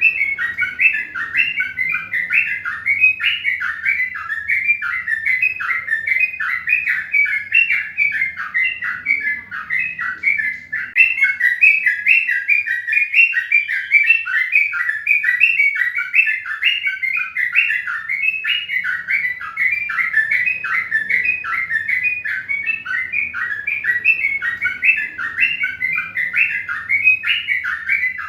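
Birds chirping in a fast, unbroken string of short, slightly falling notes, several a second, over a faint low hum.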